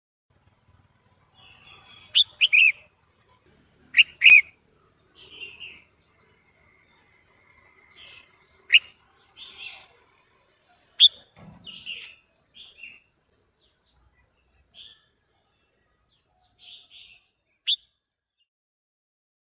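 Female red-whiskered bulbul calling: short sharp chirps mixed with softer chattering notes, coming at irregular intervals with brief silences between.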